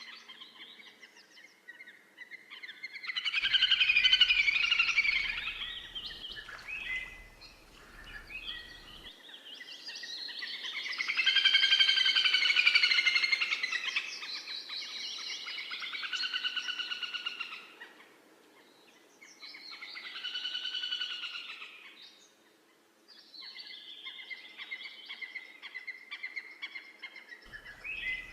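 Birds singing in long trilled phrases that swell and fade, several in a row with short pauses between them.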